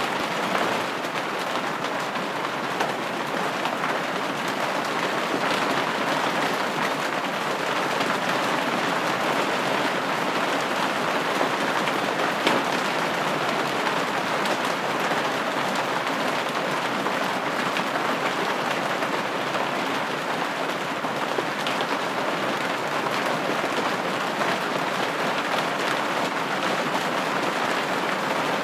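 Steady rain pattering on a window pane, an even wash of drops with scattered faint ticks of single drops.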